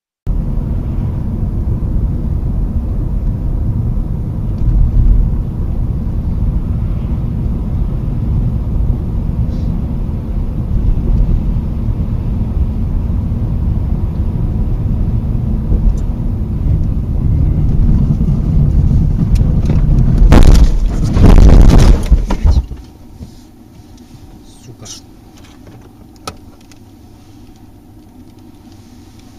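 Car driving, with steady low road and engine rumble as picked up by a dash camera. About two-thirds of the way through, a loud rushing burst lasts about two seconds. It then cuts abruptly to a much quieter hum with a few sharp ticks.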